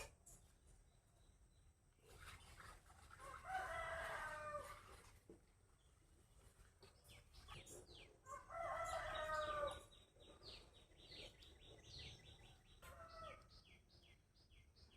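A rooster crowing twice, each crow a couple of seconds long, then a short call near the end. Small birds chirp rapidly in the second half.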